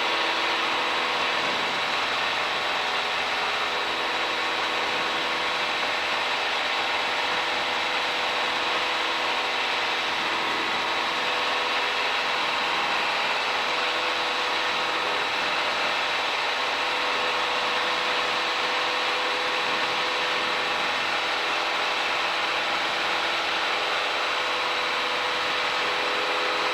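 Piper Cherokee's single piston engine and propeller droning steadily at climb power, heard inside the cockpit.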